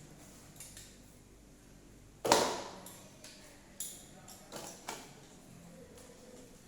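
Metal workshop tools and parts being handled: one loud sharp clank with a short ring about two seconds in, then three lighter clicks.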